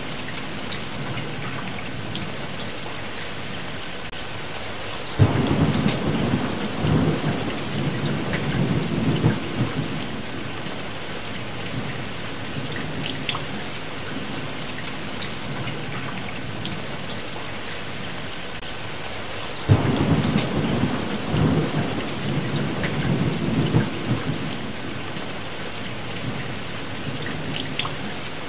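Steady rain with two rolls of thunder, one about five seconds in and another about twenty seconds in, each starting suddenly and rumbling for several seconds.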